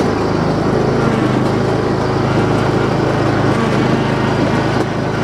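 Kohler Courage engine on a riding lawn tractor running steadily under load as the tractor is driven.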